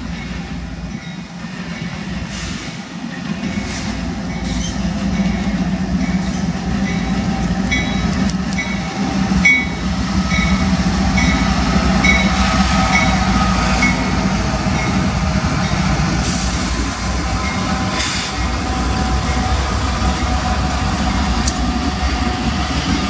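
A Union Pacific freight train's three diesel-electric locomotives (GE ES44AC, EMD SD70ACe and GE AC44CW) approach and pass at speed. Their engine rumble grows loudest about ten seconds in and stays heavy as the units and the first tank cars go by. A bell rings about twice a second while the lead units draw near.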